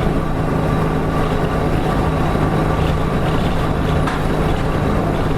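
Nissan Diesel Space Runner RM city bus (KK-RM252GSN) running along, its diesel engine at a steady pitch over road noise.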